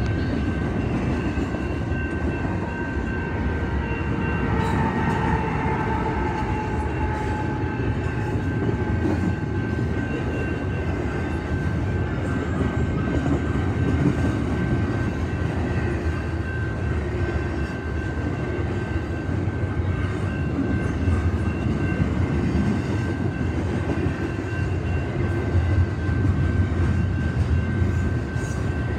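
Double-stack intermodal freight cars rolling past on the rails, a steady rumble and clatter of steel wheels on track, with a thin steady high tone above it.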